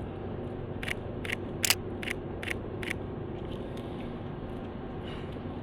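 Sony A7III mirrorless camera shutter firing a burst of six clicks, about two and a half a second, in continuous-low drive mode. A steady low street hum runs underneath.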